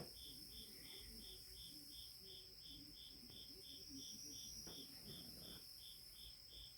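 Faint insects chirping, an even high chirp about three times a second over a steady high drone, with a couple of faint light knocks of handling parts.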